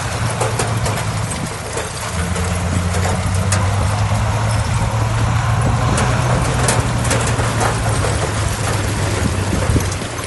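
Heavy diesel engine of earthmoving machinery running steadily, its note shifting about two seconds in, with scattered knocks over the engine noise.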